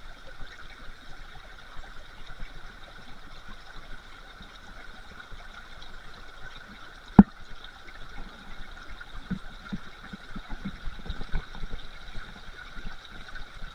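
River water running steadily over rocks, with one sharp knock about seven seconds in.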